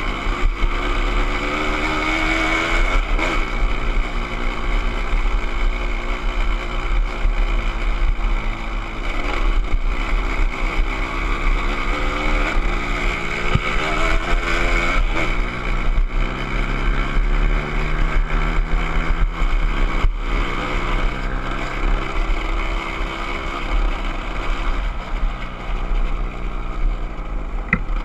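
Motorcycle engine running under way, its pitch rising and falling again and again as it revs up and eases off, with wind buffeting the microphone.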